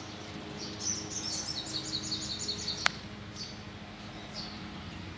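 A small bird singing a fast run of high chirps for about two seconds, followed by a few single chirps. A sharp click about three seconds in.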